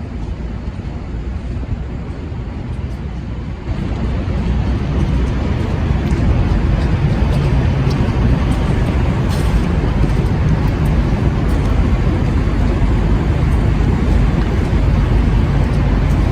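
City street traffic noise: a steady rush of passing vehicles that grows louder about four seconds in, and again a couple of seconds later.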